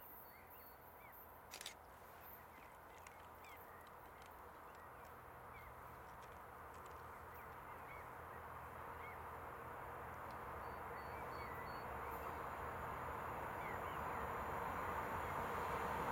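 A distant electric freight train approaching, its rumble and rail noise growing steadily louder. Small birds chirp throughout, and there is a single sharp click about two seconds in.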